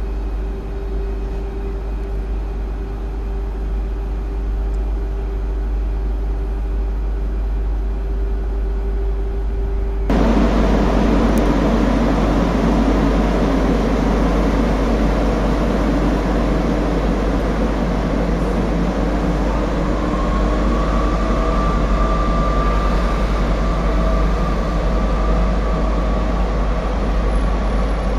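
TGV high-speed train at a station: a steady electrical hum from the standing train, then a sudden step louder about ten seconds in as it moves off, with the rumble of the train rolling out and a whine that rises slowly as it gathers speed.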